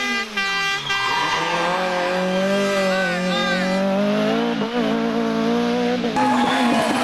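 Rally kit car engine: revs drop in the first second, then hold fairly steady at high revs for several seconds. The sound changes abruptly near the end as another car's engine takes over.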